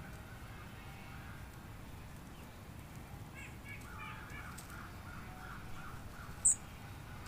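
Wild birds calling outdoors over a steady low background rumble: a run of short repeated calls starts about three seconds in, and a single sharp, high chirp near the end is the loudest sound.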